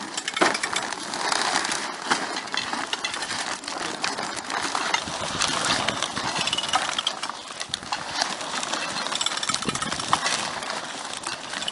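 Heavy plastic sheeting of an AquaDam flood barrier rustling and crinkling as it is unrolled and handled, with many irregular clicks and knocks.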